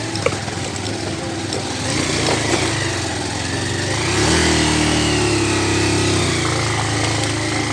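150 cc single-cylinder motorcycle engine running under way at low speed, growing louder about four seconds in as it pulls harder.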